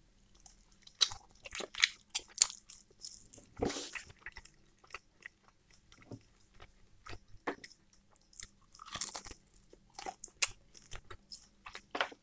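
A person biting and chewing pieces of roast chicken, heard close to the mouth through a clip-on microphone: a string of irregular short clicks from chewing.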